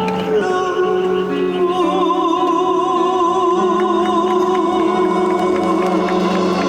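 Female trot singer holding one long note with a wide vibrato over sustained backing music, at the close of a ballad.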